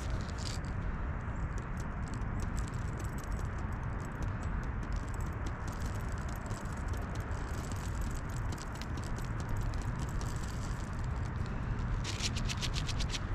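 Dry berry-nugget bait pellets rattling as they are poured into a dog-proof raccoon trap's bait tube. The pellets make many small clicks, thickest near the end, over a steady low rumble.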